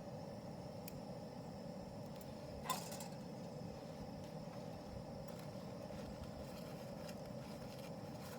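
Quiet steady background ambience with a single light click or clink about a third of the way in.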